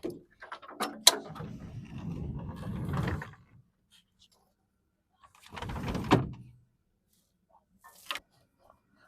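Knocks and low rumbling as belongings are carried in and moved about, with a door being worked: a sharp knock about a second in, a couple of seconds of rumbling, another rumble and thump around six seconds, and a light click near the end.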